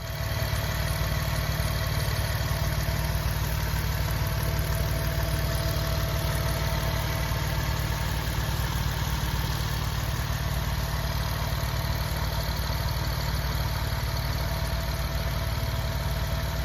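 A 2009 Jeep Wrangler's 3.8-litre V6 idling steadily, with an even, low exhaust note and no revving.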